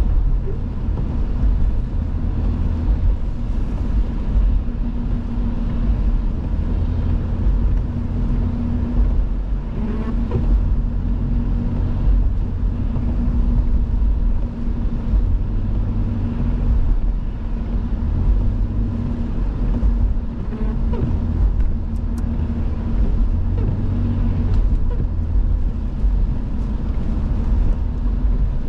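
Steady engine and road noise of a car heard from inside the cabin while driving, with a low rumble and a constant low hum.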